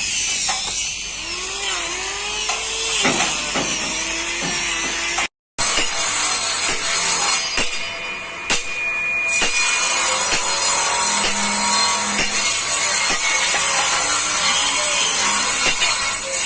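Workshop power-tool noise: a tool cutting or grinding with its pitch rising and falling as it loads. After a sudden break about five seconds in, a busier stretch of tool noise with many knocks follows.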